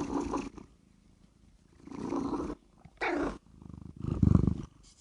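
A cat vocalizing: a few short calls, one falling in pitch, then a louder low, pulsing purr about four seconds in.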